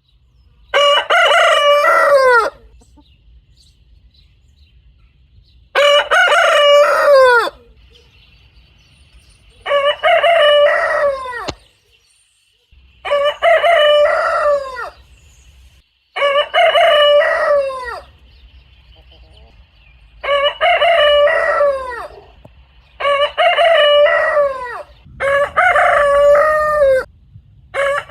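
Rooster crowing over and over: eight full cock-a-doodle-doo calls in a row, each about two seconds long and dropping in pitch at the end, a few seconds apart.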